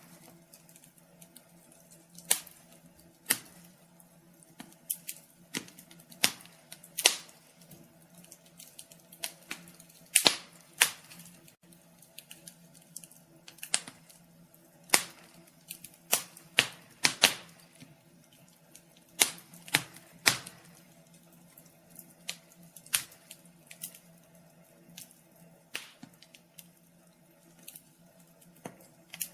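Wood fire in a fireplace crackling, with irregular sharp pops and snaps, some close together and some after gaps of a second or two, over a faint steady hum.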